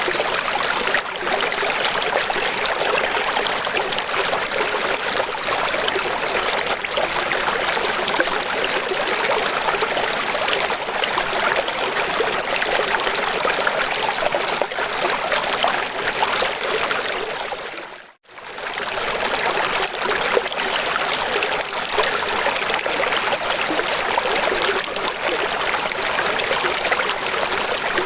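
Running water rushing steadily, as of a stream or small waterfall. It briefly fades out and straight back in about eighteen seconds in.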